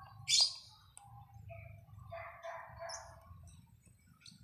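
Faint bird calls in the background, with a brief hiss about half a second in and a low steady rumble underneath.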